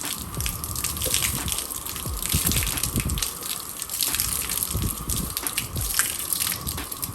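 Water from a hose spraying and splashing steadily onto a car's window glass.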